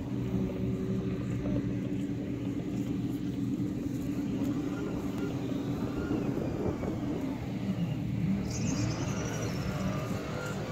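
Car engines idling with a steady low hum. A brief high-pitched squeal sounds about eight and a half seconds in.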